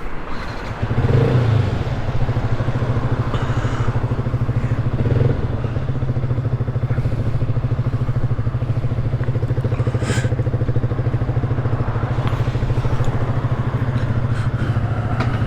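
Yamaha 125 cc single-cylinder four-stroke motorcycle engine, started about a second in and idling steadily. The revs rise briefly just after it catches and again around five seconds, and a sharp click comes near ten seconds.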